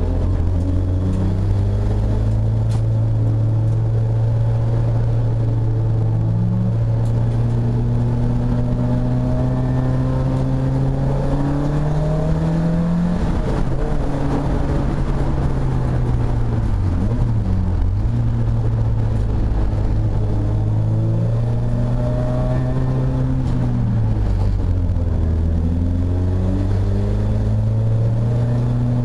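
Racing saloon car's engine heard from inside the cockpit at race pace. It holds high revs and climbs slowly, then drops sharply about two-thirds of the way in and again near the end as the car brakes and shifts down for corners, picking up again after each drop.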